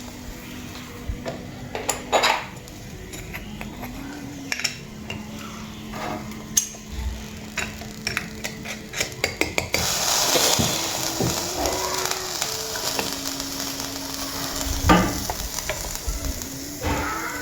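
Kitchen utensils clinking and knocking against dishes and pots in a quick run of sharp clicks. About ten seconds in, a steady hiss begins and the clinks go on over it.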